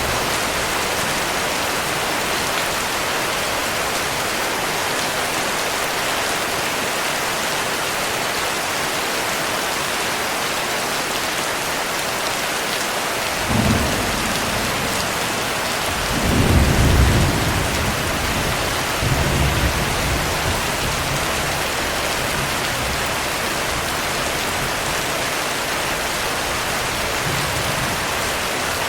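Steady heavy rain. About halfway through, thunder rumbles low: a short rumble, then a longer rolling one, then a weaker one.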